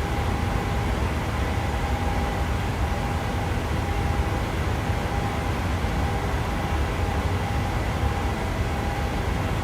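Steady engine and airflow noise inside a Boeing 737-800 in flight, a deep even rumble with a faint steady whine over it.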